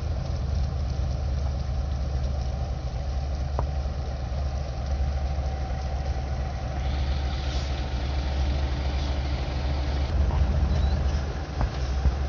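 Heavy diesel truck engines running with a steady low rumble, a hiss joining from about seven seconds in.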